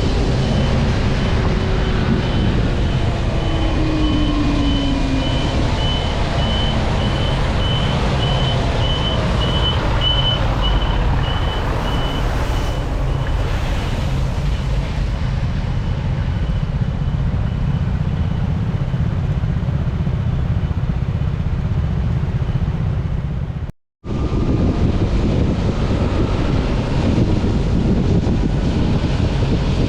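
Wind buffeting the microphone over road traffic noise while riding. A passing vehicle's engine falls in pitch a few seconds in, and a high beep repeats about twice a second through the first half. The sound cuts out for a moment about two-thirds of the way through.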